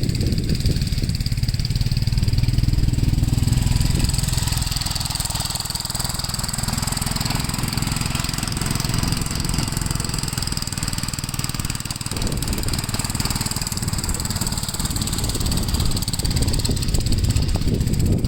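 Gravely L8 walk-behind tractor engine running steadily while plowing snow; it eases off a little midway and picks up again near the end.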